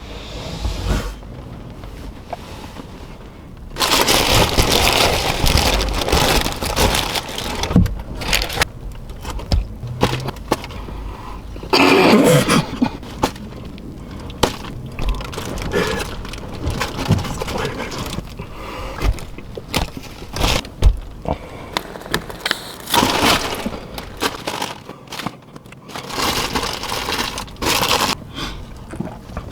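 Paper fast-food wrappers and bags rustling and crinkling in loud bursts, with scattered knocks and clicks between them.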